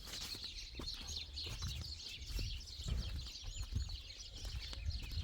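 Farmyard ambience: chickens clucking and small birds chirping, with a few short, high arched chirps about three seconds in over a low rumble.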